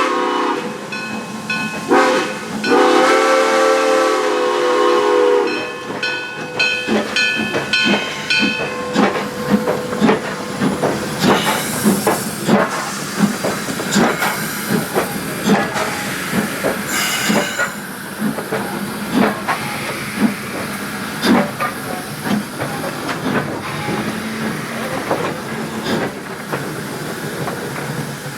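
Steam whistle of Great Smoky Mountains Railroad #1702, a 2-8-0 steam locomotive: a blast ending just after the start, a short blast about two seconds in, then a long blast that stops about five and a half seconds in. After that the locomotive's exhaust chuffs steadily as it works along, with bursts of steam hiss around twelve and seventeen seconds in.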